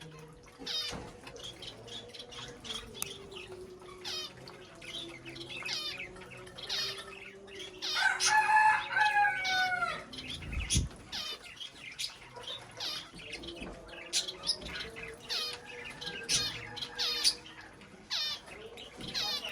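Many small birds chirping in quick, high, short calls throughout. About eight seconds in, a louder, longer call lasts some two seconds and falls in pitch at its end, followed by a short low thump.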